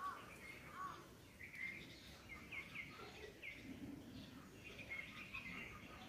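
Small birds chirping faintly: a scatter of short, quick chirps, several in close succession a few seconds in, over a steady low hiss.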